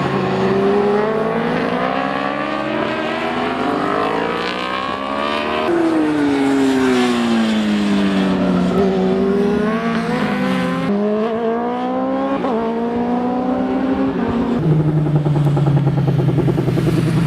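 1000cc superbike racing motorcycle engines at high revs, their pitch rising and falling over and over with sudden drops, as on gear changes. In the last few seconds a steadier, lower engine note takes over.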